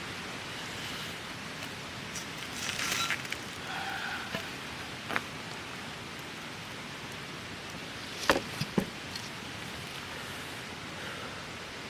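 Wood campfire burning with a steady hiss, broken by a few sharp pops and crackles, the loudest a quick cluster of pops a little past the middle.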